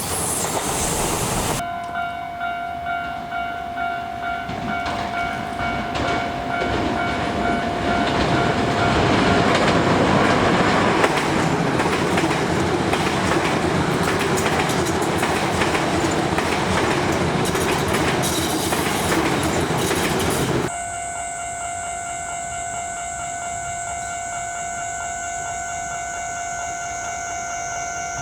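Commuter trains on a suburban line with a level crossing warning bell ringing steadily. A train passes with its wheels clacking over the rail joints, growing louder and then holding steady. The rumble cuts off suddenly about three quarters of the way through, leaving the crossing bell ringing.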